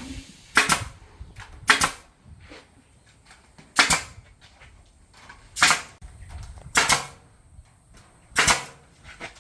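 Staple gun fired six times, one sharp shot every second or two, fastening wire mesh to a timber frame.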